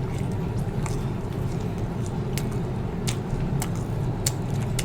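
A person chewing food with the mouth close to the microphone, with about seven short wet clicks spread through, over a steady low hum.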